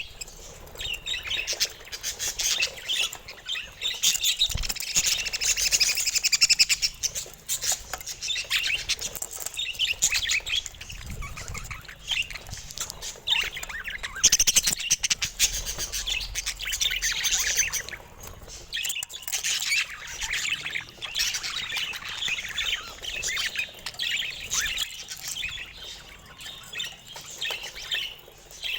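Several budgerigars chattering, with rapid high chirps all through and louder stretches about four seconds and fourteen seconds in.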